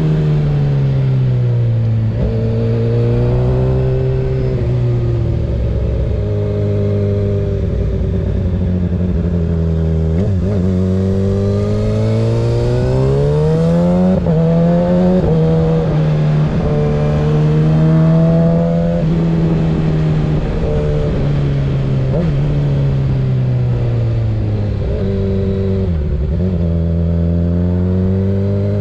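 2024 Kawasaki ZX-6R 636 inline-four with a Graves exhaust, running under way. The engine note rises and falls with the throttle through the ride, with a few quick dips in pitch, the clearest at about ten seconds and again near the end.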